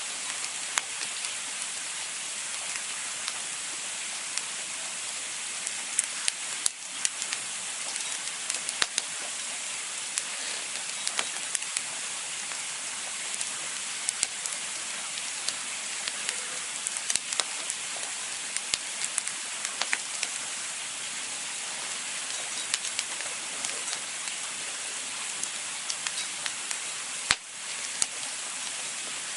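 Campfire crackling: a steady hiss with frequent sharp pops and snaps from the burning wood.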